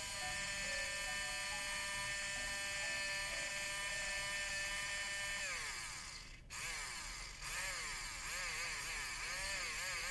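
Small battery-powered toy dentist drill from the Play-Doh Doctor Drill 'n Fill set running with a high steady whine. Around six seconds in the pitch sags and the motor stops for a moment. It then runs again with its pitch wavering up and down, with one brief cut-out.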